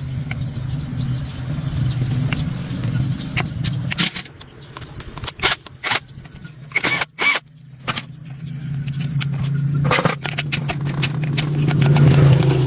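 A motor runs with a steady low hum that drops away about four seconds in. Several sharp metallic clicks and knocks follow, then the hum builds up again and grows louder toward the end.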